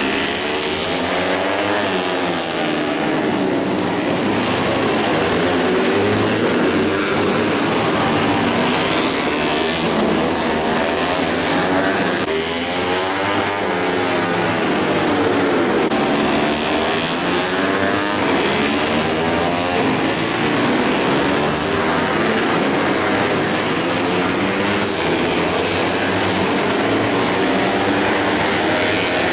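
Several racing motorcycle engines at once, revving hard, their pitch rising and falling over and over.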